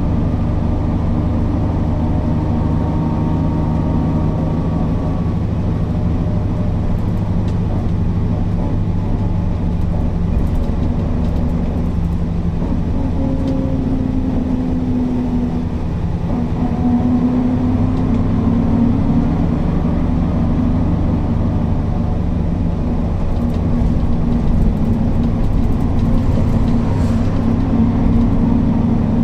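Mercedes-Benz O408 city bus's diesel engine running under way with a deep, steady drone. Its pitch shifts in the middle, dipping briefly and then picking up, and it grows a little louder after that.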